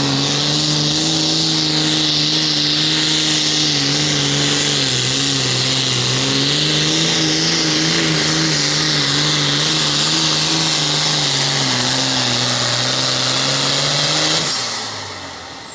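Turbocharged diesel engine of a light limited super stock pulling tractor running flat out under load, its pitch sagging slightly twice as the sled pulls it down. Near the end the engine shuts down and a high whine falls steadily away as the turbo spools down.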